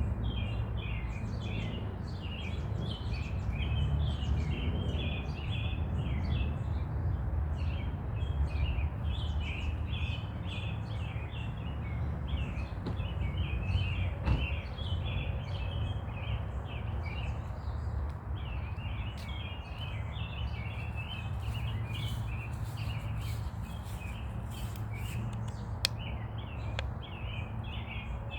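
Many small birds chirping continuously in a dense chorus, over a steady low rumble.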